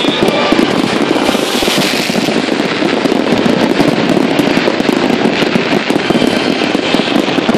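Fireworks display: a dense, continuous barrage of crackling bursts with no let-up.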